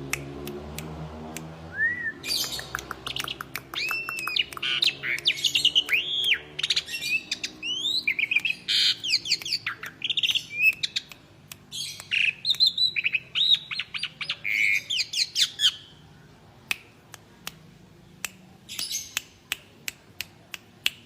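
Pied starling (jalak suren) calling loudly: a long run of clear whistled notes that rise and fall, mixed with harsh squawks. About three-quarters of the way through it thins to scattered clicks, with a short burst of calls near the end.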